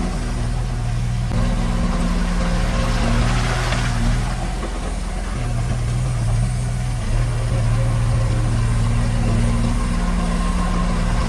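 Diesel engine of heavy earthmoving machinery running steadily, its note briefly dropping three times: near the start, about five seconds in, and near the end.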